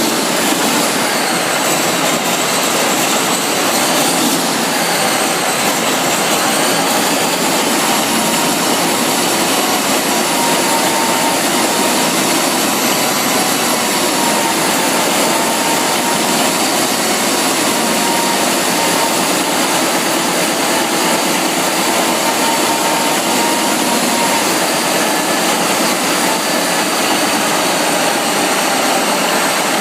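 Large engine running loudly and steadily, with a high whine that climbs in pitch about five seconds in and then holds.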